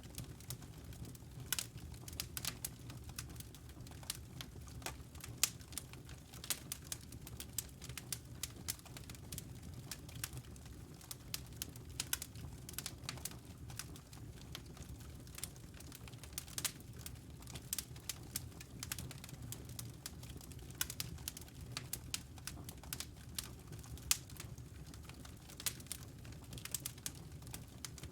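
Wood fire in a fireplace crackling: irregular sharp pops and snaps, several a second, over a low steady sound of the flames.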